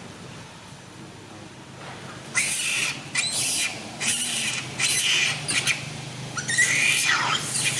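A monkey giving a series of short, harsh, high-pitched screeches, about six in quick succession, starting a couple of seconds in.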